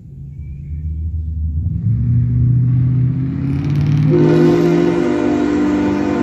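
A very loud truck giving a long pitched blast that swells over a couple of seconds, then jumps to a louder, higher steady note about four seconds in.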